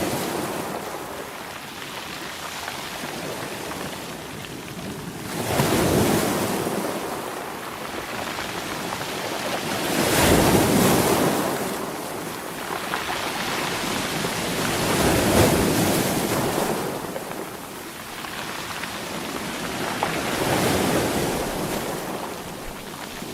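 Sea waves breaking, each one a rushing swell that builds and fades. Four waves come in, about five seconds apart.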